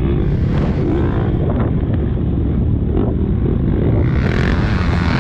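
KTM motocross bike engine running under throttle, with wind noise on the onboard camera microphone.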